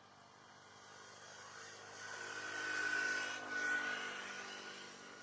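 Jet engines of a passing Boeing 777-300ER, its General Electric GE90 turbofans, swelling to a peak about three seconds in and then fading, with a steady high whine over the rush.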